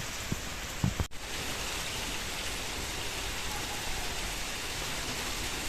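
Steady rain falling, an even hiss with a few heavier drops knocking low in the first second. The sound breaks off for an instant about a second in.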